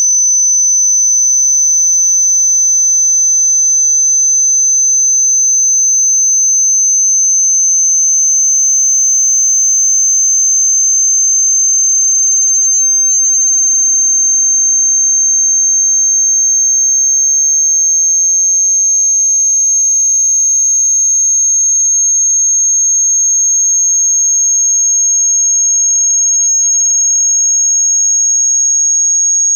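A single pure, high-pitched sine tone, a generated water-eject speaker-cleaning tone, held loud and slowly creeping upward in pitch.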